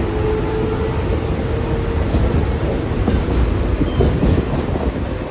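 Mumbai suburban electric local train running, heard from inside the carriage: a steady low rumble and rattle of the wheels on the rails, with a faint steady tone in the first two seconds and a few clanks and rattles from about three seconds in.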